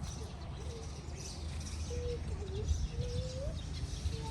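A few soft, low cooing notes, short and single-pitched, the longest rising at its end, over a steady low hum.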